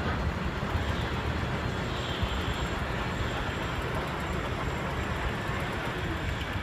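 Steady rumble of a locomotive running, an even noisy drone heaviest in the low end that holds at a constant level.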